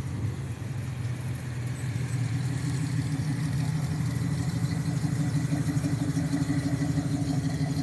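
Classic car engine idling with a steady low rumble, sounding solid, growing slightly louder toward the end.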